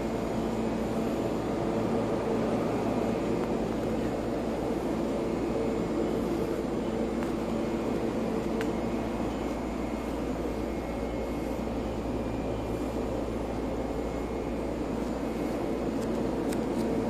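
Steady hum of a standing JR Oga Line EV-E801 battery-electric train, heard from inside the car, with a few held tones over a low rumble: its air conditioning and onboard equipment running while it waits at the platform.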